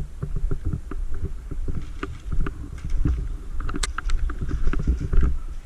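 Low rumbling movement and wind noise on the microphone, with many small clicks and knocks and one sharp crack about four seconds in.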